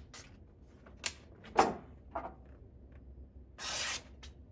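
Freshly sharpened kitchen knife being test-cut: a few short, sharp slicing strokes and one longer hissing slice near the end, checking the new edge.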